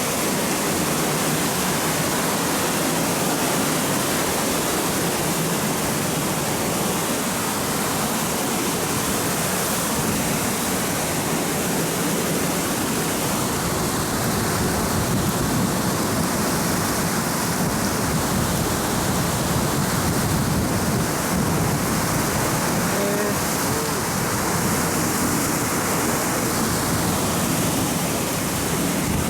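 Steady rushing of a river in flood: a dense, even noise of fast-moving water with no breaks.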